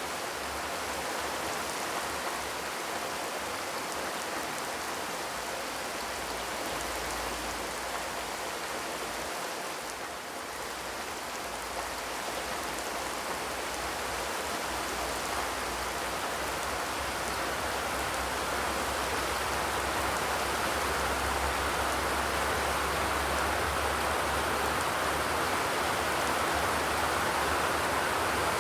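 Steady rain on a corrugated zinc roof, an even hiss of drops with no thunder, growing slightly louder over the second half.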